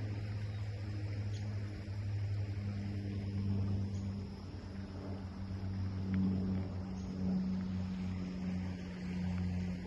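A low, steady engine-like drone that swells and fades a little, with a few faint, brief bird chirps above it.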